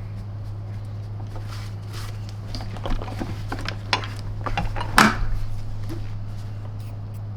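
Toothbrush scrubbing a dirty plastic vacuum-cleaner wheel: irregular short scratchy strokes and small knocks as the part is handled, the sharpest about five seconds in, over a steady low hum.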